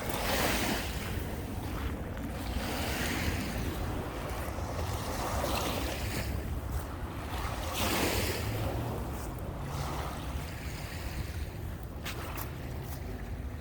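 Lake Michigan waves breaking and washing up the shore, a swell every two to three seconds, with wind rumbling on the microphone.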